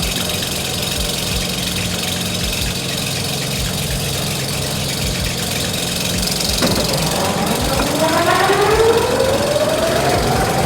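1950s yarn-making machine running, with a regular low knock about three times a second over a steady hum. About two-thirds of the way through a click comes, then a whine that climbs steadily in pitch as something spins up.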